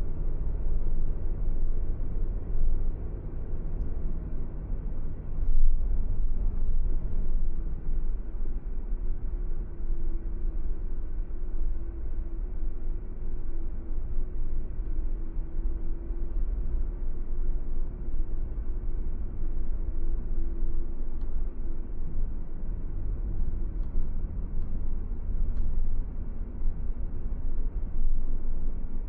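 Car driving at a steady speed: low, even road and engine rumble. A steady hum comes in about nine seconds in and fades out a little after twenty seconds, with a single short knock near six seconds.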